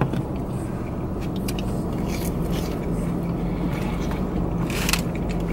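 Steady low hum of a car idling, heard from inside the cabin, with a couple of faint clicks.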